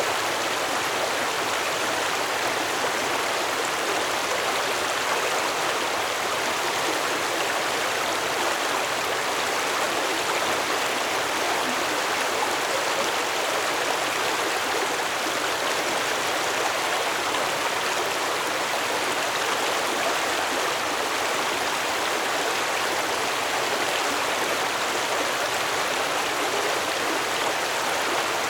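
Stream water flowing steadily over rocks, an even rushing babble with no change in level.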